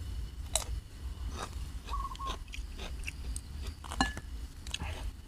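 A person chewing food close to the microphone, with scattered wet mouth clicks and smacks. A bird gives a short warbling call about two seconds in.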